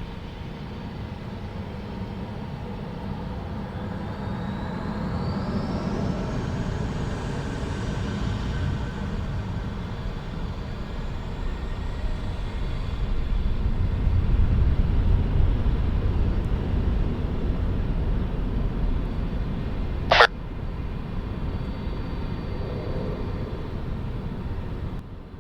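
Airbus A321 jet airliner taking off at full power. Its engine noise builds to a heavy low rumble that is loudest a little past the middle, with a rising whine about five seconds in. A single short sharp click sounds about twenty seconds in.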